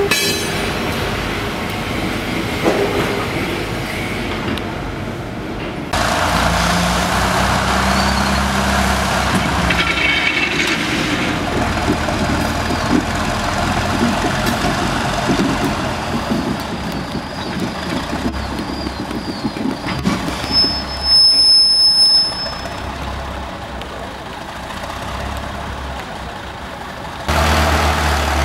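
Diesel switcher locomotives running while railway cars are moved slowly along the track, with a brief high-pitched squeal about two-thirds of the way through.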